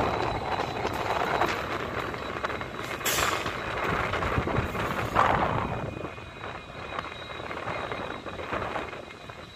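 Diesel train running past on the rails and moving away, its engine and wheel noise fading steadily, with a short hiss about three seconds in.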